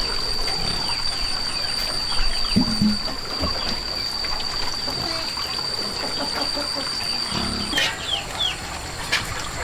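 Water trickling, with small birds chirping in short falling notes, more often near the end. A steady high-pitched whine runs underneath and cuts off suddenly near the end.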